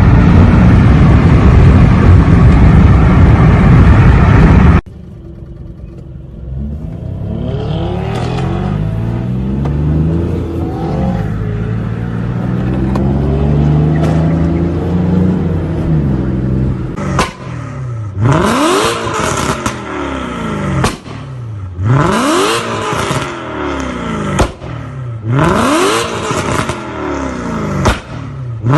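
BMW car engines across cut-together clips: a very loud, even engine-and-exhaust noise that stops abruptly about five seconds in, then an engine's pitch climbing and falling under throttle. In the last ten seconds the engine is revved hard again and again, each rev rising sharply and cutting off, about one every second and a half.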